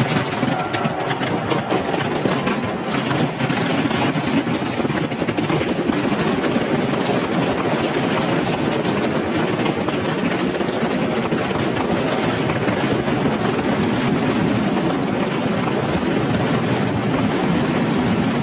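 Dense, continuous barrage of fireworks going off, a constant rapid crackle and popping of many shells bursting at once, with no music.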